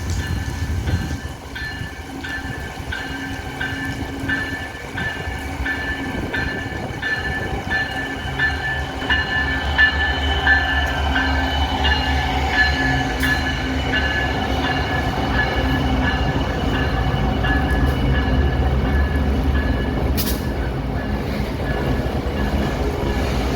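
Loaded iron ore train passing, hauled by a pair of Wabtec AC44i diesel-electric locomotives: a steady low locomotive rumble with the rolling noise of the wagons, and several steady high-pitched tones held over it through most of the passage.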